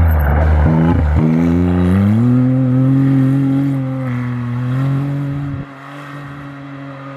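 A rally-raid car's engine under hard acceleration. The note breaks briefly for a gear change about a second in, climbs in pitch and holds, then drops away sharply near the end as the car goes off.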